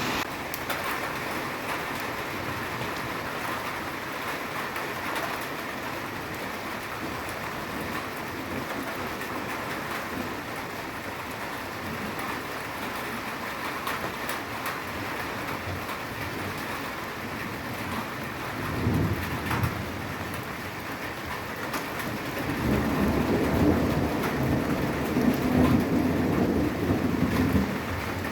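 Steady hiss of rain from a thunderstorm, with a brief low rumble of thunder about two-thirds of the way in and a longer, louder rumble near the end.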